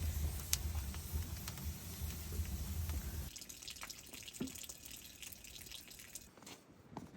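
Water running and splashing, cutting off suddenly about three seconds in, then a few scattered drips and small clicks.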